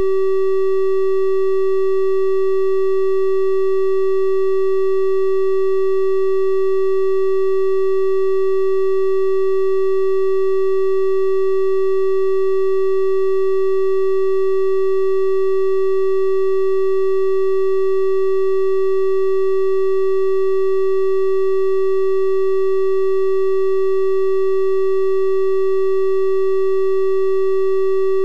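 A steady, unbroken synthesized 384 Hz triangle-wave tone: a pure-sounding hum with faint higher overtones, holding the same pitch and level throughout.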